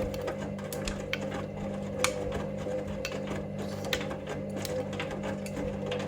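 Hoover Link washing machine running its main wash: a steady motor hum as the drum turns, with irregular clicks and taps from the laundry tumbling. The hum stops suddenly near the end as the drum pauses.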